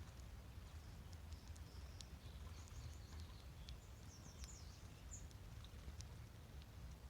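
Faint songbird song: a quick run of high, warbling notes from about two and a half to five seconds in, with a few short sharp ticks, over a low steady rumble.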